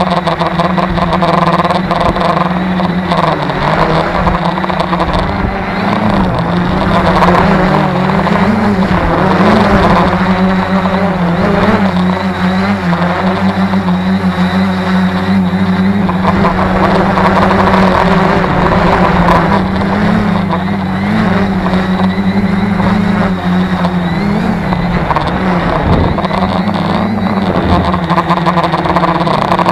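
Tarot 650 quadcopter's electric motors and propellers humming steadily, the pitch wavering slightly up and down as the flight controller keeps correcting against gusty wind.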